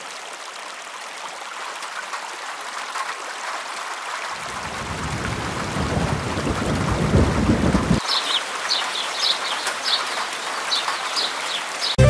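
Rain sound effect, a steady hiss growing louder, with a low thunder-like rumble from about four seconds in that cuts off suddenly at eight seconds. After that, a run of short chirps sounds over the rain.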